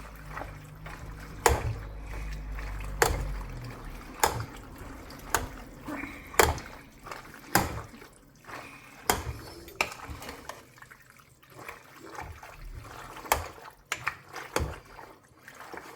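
Pasta being stirred through a creamy sauce in a pan: wet, sticky mixing sounds, with the utensil knocking against the pan about once a second.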